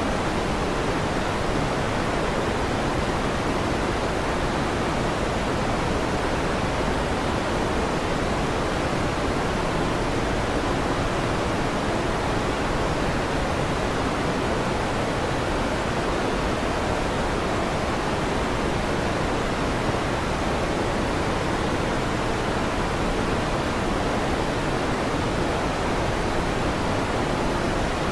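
Electric fan running with a steady, even rushing noise that does not change.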